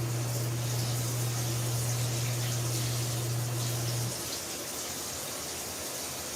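Water running steadily into the tub of a mini twin-tub portable washing machine, with a low steady electric motor hum that stops about four seconds in.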